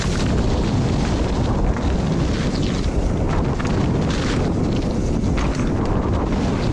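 Wind rushing over the riding camera's microphone during a mountain bike descent, mixed with the tyres and bike rattling over muddy ground, with scattered small knocks.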